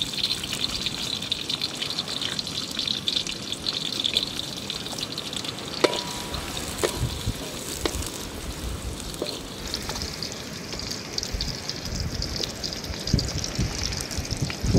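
Garlic and shallots sizzling in hot oil in a metal wok, stirred with a wooden spatula that knocks against the pan a few times around the middle. Chopped tomatoes go into the oil near the end.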